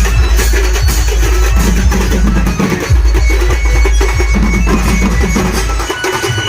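Loud music with drums and heavy deep bass, played through a large DJ sound system. The deep bass cuts out briefly about two and a half seconds in and drops away near the end.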